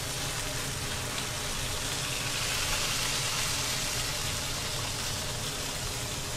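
Chicken breast cutlets sizzling as they pan-fry in oil in a nonstick frying pan: a steady hiss that swells a little midway.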